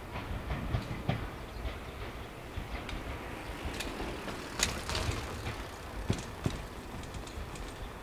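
Meitetsu train wheels clicking and clanking over rail joints and pointwork, over a low running rumble, with a few sharper clanks around the middle.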